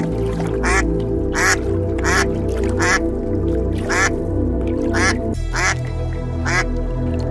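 A bird giving short, harsh calls repeated roughly once a second, over soft background music with sustained chords.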